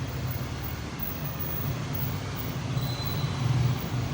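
Steady low rumble of vehicle and traffic noise, with a faint high whine briefly about three seconds in.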